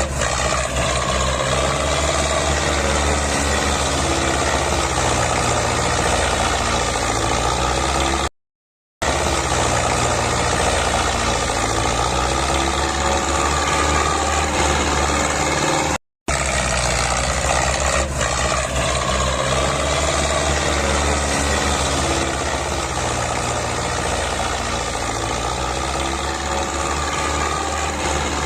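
Diesel tractor engines running steadily under load as two tractors, a Mahindra Arjun and an HMT 5911, pull against each other in a tug-of-war. The sound cuts out briefly twice.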